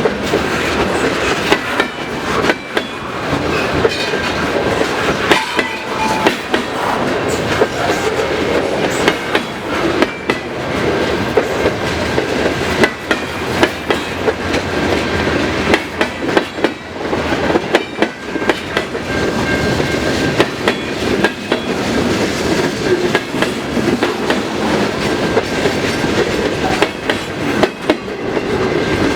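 Freight cars of a slow-moving manifest train rolling past, their wheels clicking over rail joints in a continuous clickety-clack over a steady rumble.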